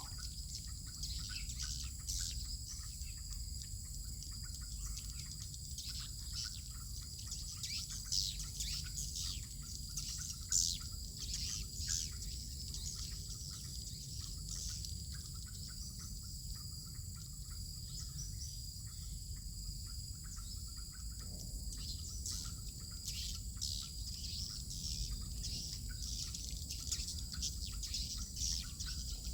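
Swiftlets twittering: many short, high chirps scattered throughout, over a steady high-pitched insect drone and a low steady rumble.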